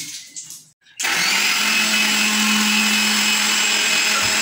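Electric mixer grinder switched on about a second in and running steadily at full speed, beating two eggs with salt in its jar as the first step of homemade mayonnaise.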